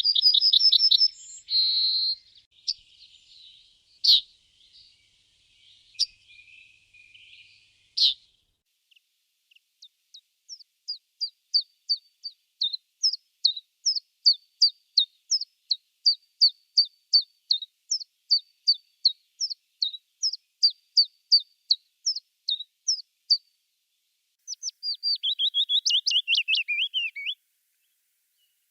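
Songbirds singing in spring woodland. A quick run of high notes comes first, then a few scattered single notes. After that, a long series of short, high, repeated notes comes about two or three times a second, and a fast tumbling phrase follows near the end.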